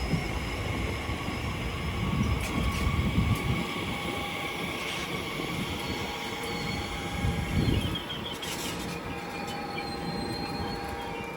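A train running through a station: a low rumble with steady high-pitched tones from the wheels and running gear held throughout.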